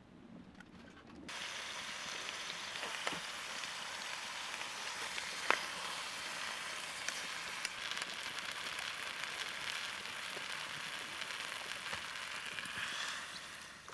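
Food sizzling in a hot pan: a steady frying hiss with scattered small pops and crackles, starting suddenly about a second in.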